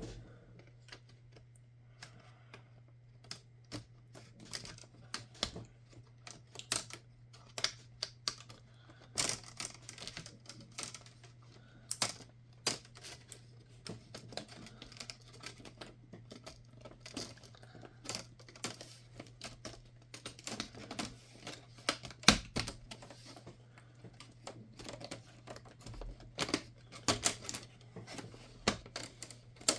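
Irregular small clicks and taps of hands working on an HP 15s laptop, some louder knocks among them, over a steady low hum.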